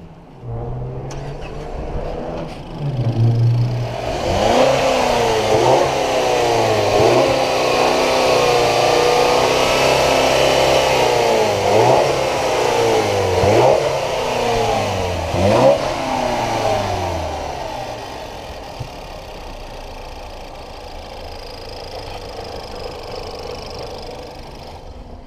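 2018 Ford Edge 2.0L EcoBoost turbocharged four-cylinder engine running. It idles, is revved up and down several times, then settles back to a steady idle.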